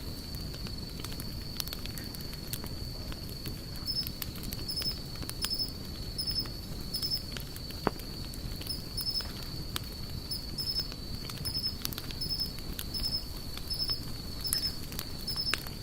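Wood campfire crackling, with scattered sharp pops and one louder snap about halfway through. Behind it runs a steady high insect drone and a short high chirp that repeats about every half-second.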